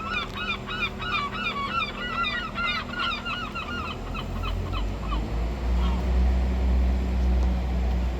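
A gull calling in a rapid series of harsh, honking notes, about four a second, which die away after about five seconds. From about four seconds in, a low diesel-train rumble rises and grows louder.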